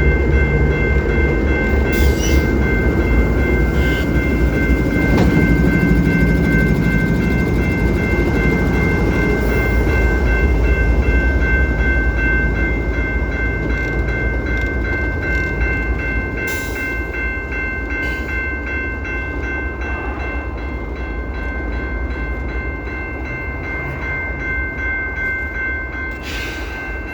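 A Kansas City Southern train rolling past with a heavy low rumble and several steady high tones held throughout. The rumble thins and the sound eases off gradually in the second half.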